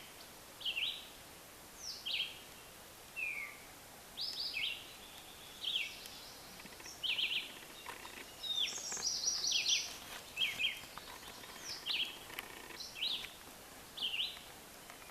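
Birds chirping: short, sharp high notes, many falling in pitch, about one a second with a busier run in the middle, over a steady background hiss.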